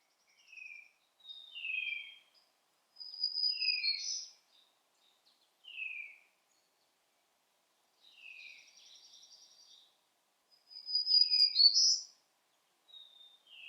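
Birds calling and singing: short down-slurred whistles, thin high notes and buzzy trills in clusters, the loudest cluster about eleven seconds in.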